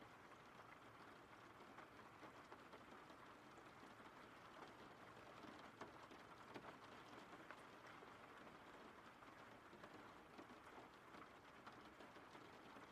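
Faint steady rain: an even hiss with scattered drop ticks.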